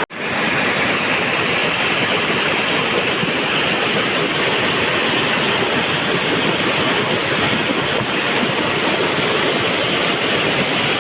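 Flash-flooding mountain torrent (gadhera) after heavy rain: a loud, steady rush of water, cutting out for an instant at the very start.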